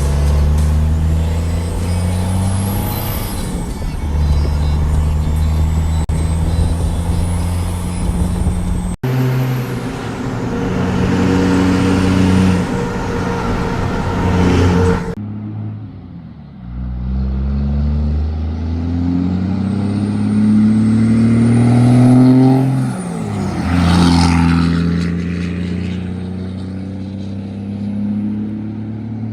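24-valve Cummins 5.9 L inline-six turbo diesel, with a VP44 injection pump, accelerating under load. Its pitch climbs and then drops several times as the manual gearbox is shifted. A high turbo whistle rises and falls above the engine, and the sound cuts abruptly twice.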